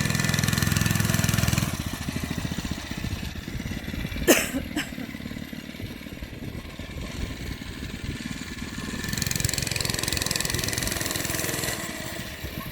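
Small mini bike engine running. It is louder at first, eases off, then picks up again for a couple of seconds near the end. A single sharp knock comes about four seconds in.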